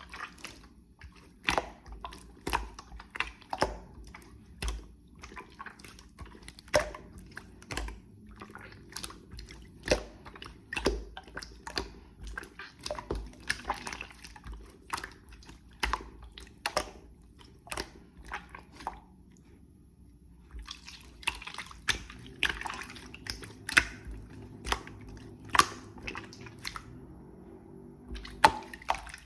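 Clear slime being squished and worked by hand, giving a continuous string of sharp, wet pops and clicks.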